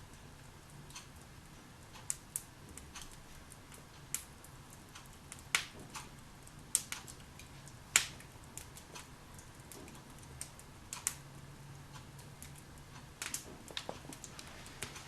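Log fire in a fireplace crackling: irregular sharp pops and snaps over a faint steady hiss, the loudest pop about eight seconds in.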